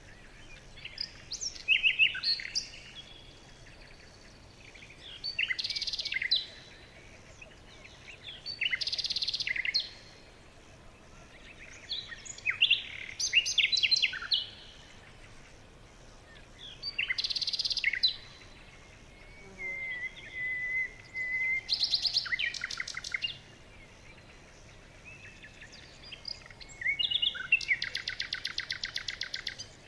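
Songbirds singing in short chirping phrases every few seconds, with one steady whistled note about two-thirds of the way in and a fast trill near the end.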